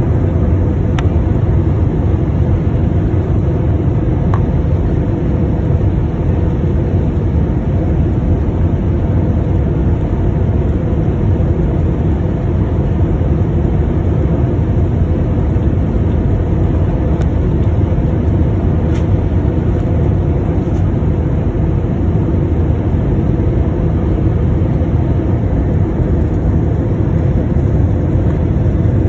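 Steady cabin noise of a jet airliner coming in to land: the low, even roar of engines and rushing air heard from inside the cabin, with a few faint ticks.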